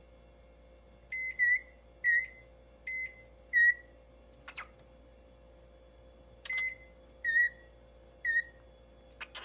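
A pet bird giving a run of short, high, beep-like whistled calls. Some are flat, even beeps and others dip downward like a chirp, in two groups of three or four, with a single click in between.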